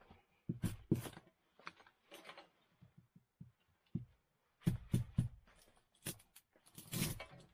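Irregular knocks and clatters with some rustling, objects being handled in a small room, loudest in clusters near the start, about five seconds in and near the end.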